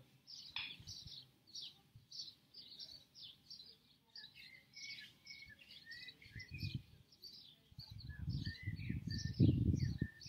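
Small birds chirping repeatedly in quick, high notes. A low rumbling noise comes in briefly about six seconds in and again from about eight seconds, becoming the loudest sound near the end.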